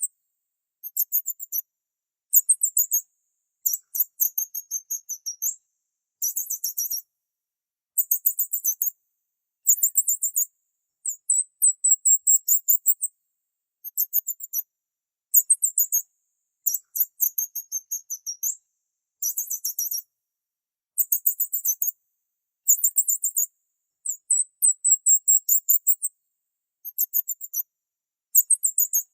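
Small bird chirping in high-pitched phrases of rapid notes, each about a second or two long, repeated over and over with short pauses between.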